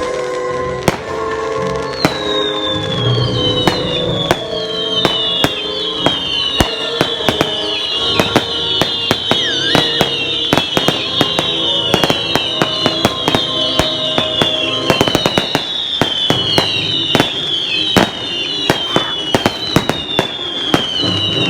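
A fireworks display: a dense run of sharp bangs and crackles. From about two seconds in, many overlapping whistles each fall in pitch, over steady background music.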